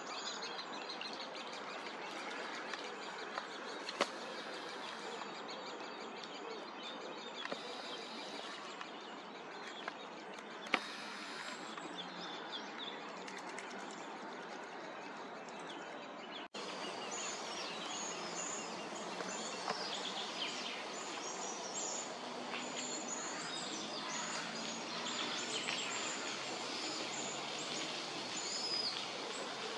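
Birds chirping and singing over a steady outdoor background hiss, with a couple of sharp clicks in the first half. The sound drops out for an instant about halfway, and after that the birdsong is busier.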